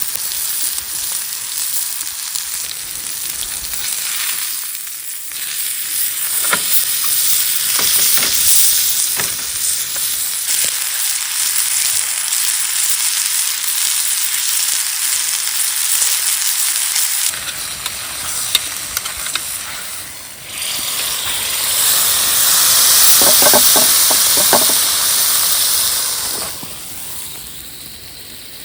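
Steak sizzling over a campfire, a dense hiss with scattered crackles. It swells sharply about three-quarters of the way through, then dies down near the end.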